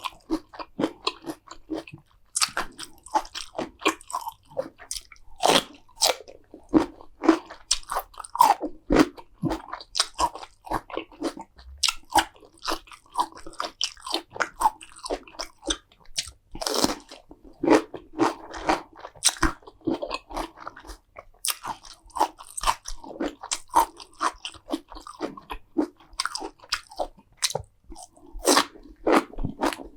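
Close-miked eating of crunchy food: continual biting and chewing, with many sharp, irregular crunches throughout.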